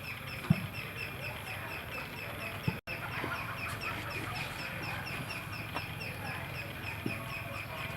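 Steady background chirping, a short high chirp repeated about five times a second, with two soft knocks, about half a second in and near 3 seconds.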